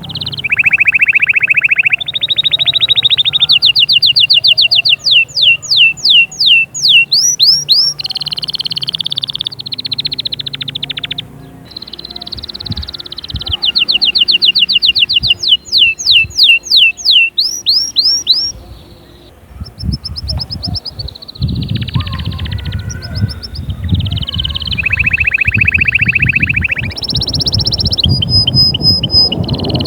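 Domestic canary singing a long, loud song of rolled tours: runs of rapidly repeated notes, rising whistled sweeps at several a second, and buzzy trills, switching from one tour to the next every second or two.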